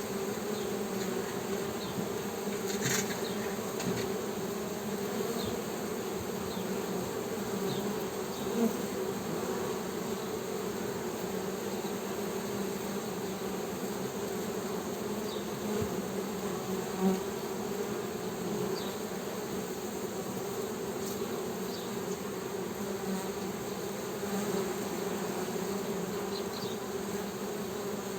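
Honey bees humming, a steady drone of many wingbeats with a few brief louder buzzes as single bees pass close.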